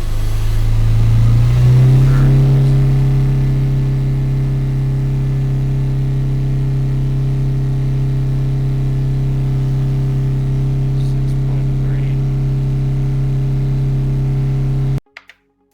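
Car engine revved up over about two seconds, then held steady at high revs, picked up through a Super Ear Toy sound amplifier's microphone. The recording cuts off suddenly near the end.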